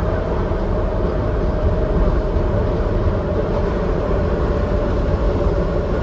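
Docklands Light Railway B92-stock train running at speed, heard from inside the car: a steady, heavy rumble with a constant whine over it.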